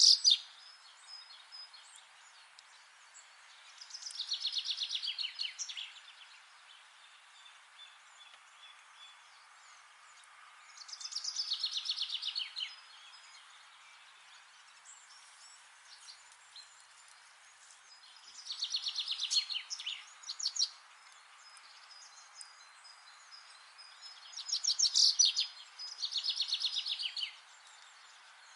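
A songbird repeating a short, fast trill of rapid notes that falls in pitch, about every six or seven seconds, over a faint steady hiss of forest background.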